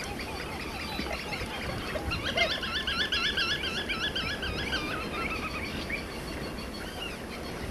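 A bird calls a fast run of about fifteen wavering, fluty notes, roughly four a second, starting about two seconds in and stopping near six seconds. Fainter, lower calls come before it, over a low steady background rumble.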